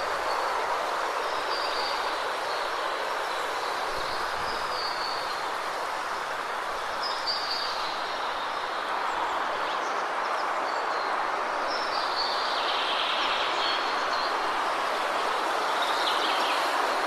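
Steady rushing of a waterfall, with small birds chirping in short phrases every second or two above it.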